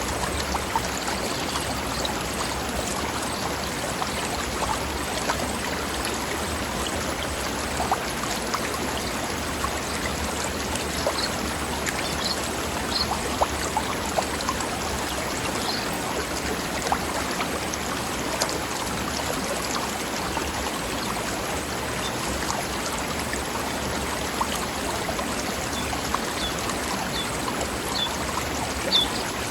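Mountain stream babbling steadily over rocks, a continuous rush of running water. A few short high bird chirps come through it around the middle and again near the end.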